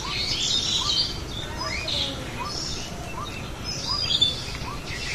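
Birds chirping and twittering, with one short rising note repeated at a steady pace, a little more than once a second.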